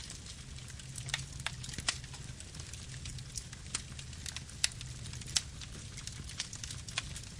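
Wood campfire burning, with irregular sharp crackles and a few louder pops over a steady low rumble.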